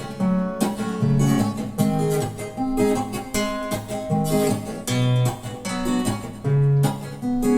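Acoustic guitar strumming chords in a steady rhythm, with low bass notes changing under them: an instrumental passage with no singing.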